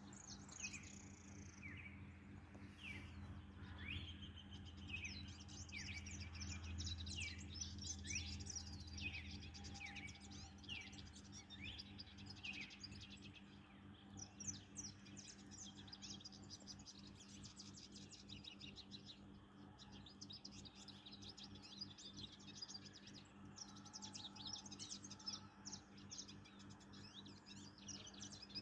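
A small songbird singing a long, fast twittering song of rapid high notes, with a run of quick downward-slurred notes in the first half. A steady low hum sits underneath.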